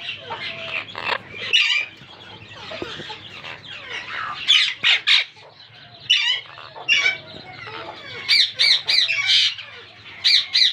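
Monk parakeets (Quaker parrots) giving harsh squawking calls in short bursts, with quieter chattering between the bursts.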